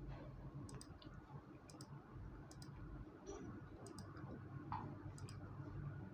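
Faint, sharp light clicks, mostly in quick pairs, several times over a low room hum.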